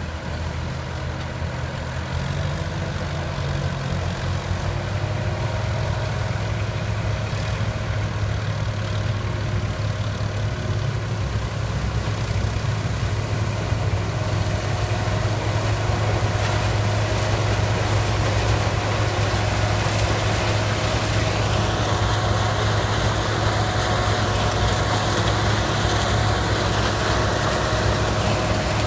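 Heavy diesel engine of a sugarcane harvester running steadily under load, a deep, even hum. The engine note steps up a few seconds in, and a higher hiss and whir of the machinery joins in over the second half.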